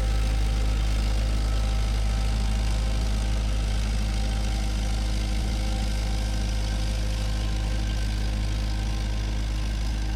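Bulldozer's diesel engine running steadily, a deep continuous drone with no breaks.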